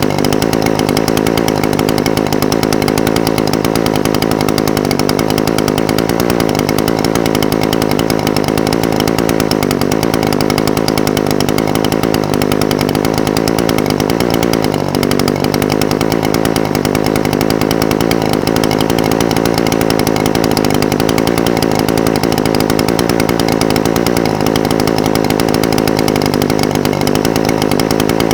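Echo SRM-420TES brush cutter's two-stroke engine idling steadily, with the idle speed wavering slightly now and then.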